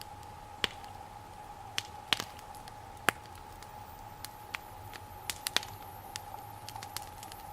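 Wood fire burning, with sharp crackling pops at irregular intervals, the loudest about two and three seconds in, over a faint steady tone.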